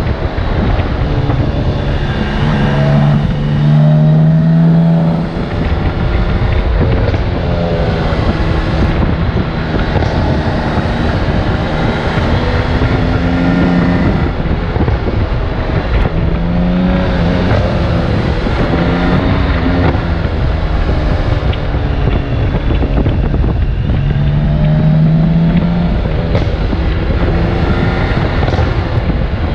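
BMW K1600GTL's inline six-cylinder engine running under way, its pitch climbing and dropping several times as the bike accelerates and eases off, over a constant rush of wind noise.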